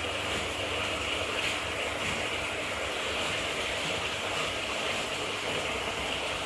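Steady rush of running water with a low hum underneath, as from a large fish tank's water circulation.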